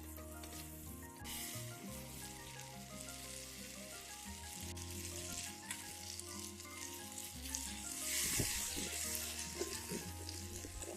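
Food sizzling in a titanium frying pan, starting about a second in and loudest near the end, over soft background music.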